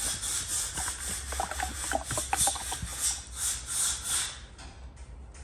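Repeated rubbing or scraping strokes, about two to three a second, with a few light clicks, stopping about four seconds in.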